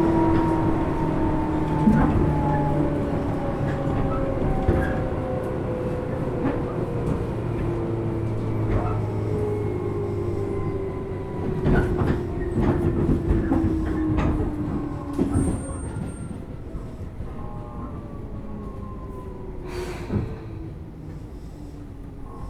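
Tobu 10000 series electric train heard from inside a motor car, its traction motor and gear whine sliding steadily down in pitch as the train slows, over a low rumble and scattered clicks of the wheels over rail joints. The running sound fades toward the end as the train nears a stop.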